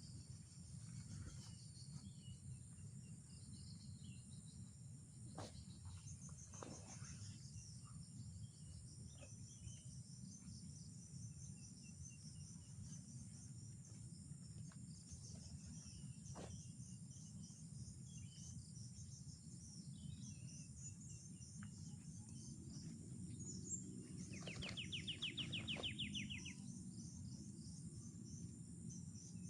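Faint forest ambience: a steady high-pitched buzz of insects with scattered short bird chirps and a low rumble underneath. About 25 s in, a louder, rapid pulsing trill sounds for about two seconds.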